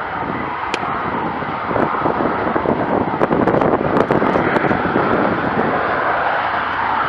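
Eurofighter Typhoon's EJ200 turbofan jet engines running during a ground engine test. The steady jet noise grows louder about two seconds in, with scattered crackling.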